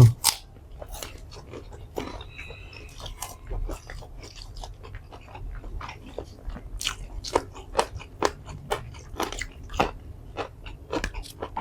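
Close-up chewing and crunching of food in a mukbang, a run of irregular crisp crunches and mouth clicks.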